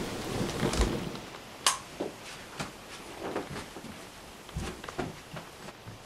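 Footsteps going down a staircase: soft, uneven thuds about every half second, with one sharp click about a second and a half in.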